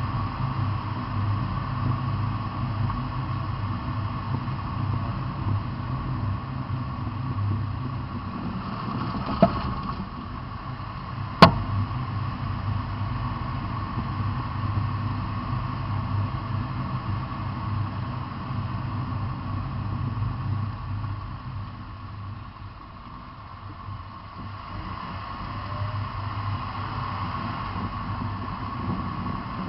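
A steady mechanical hum with two sharp pops about two seconds apart, the second the louder. These pops are the popping noise under investigation.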